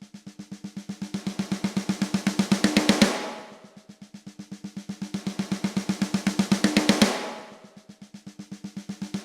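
Software snare drum playing a rapid roll of about eight hits a second that swells from soft to loud and cuts off at its peak, looped: about three swells. On the loudest hits a layered one-shot snare sample joins in, once the hits pass the velocity gate.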